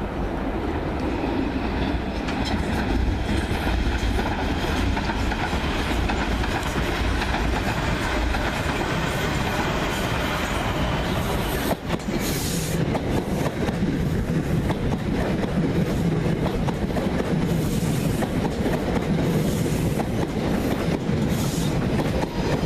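South Western Railway electric multiple-unit train running along the track, a steady rumble of wheels on rail with clickety-clack as the wheels cross rail joints and points. After a brief break about halfway through, it runs close past, with the clacking sharper and more frequent.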